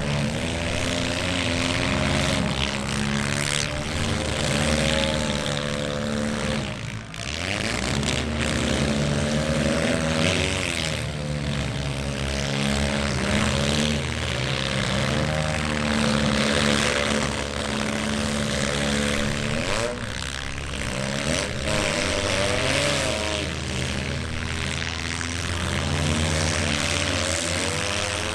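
Several demolition derby cars' engines running together, their pitch rising and falling as they rev, with a short dip about seven seconds in.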